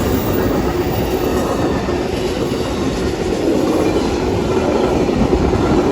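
Amtrak passenger train led by a Siemens SC-44 Charger locomotive passing close by, with a loud, steady rumble of wheels on the rails.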